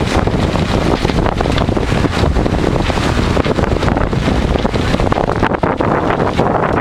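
Wind buffeting the microphone aboard a sailing yacht under way in a breeze of about 13 knots: a loud, steady rush, heaviest in the low end.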